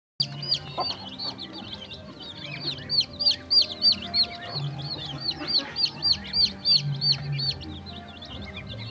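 Young poultry peeping: rapid, high arching peeps, about three a second, loudest and most regular from about three seconds in until near the end.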